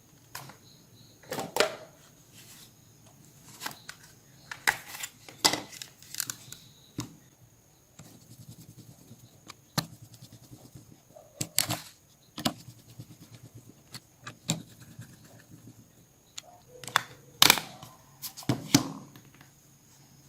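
Small hard clicks and taps of plastic and metal phone parts and tools being handled, coming irregularly in short clusters, the loudest about a second and a half in, around five seconds, near the middle and near the end.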